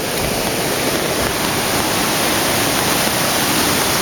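Flooded creek: fast-moving floodwater rushing steadily, a loud, even noise.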